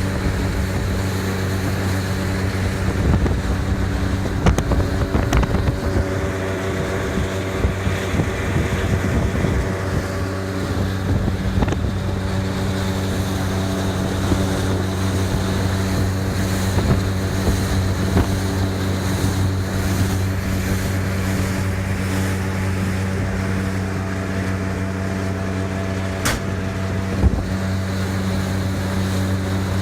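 Motorboat engine running at a steady pace under way, with rushing water and wind noise.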